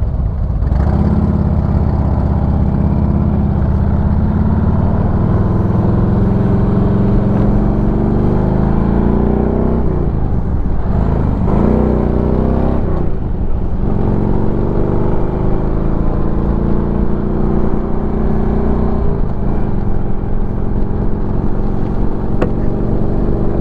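Harley-Davidson V-twin motorcycle engine running at riding speed. Around the middle its pitch drops and then climbs again, as the bike slows and then accelerates.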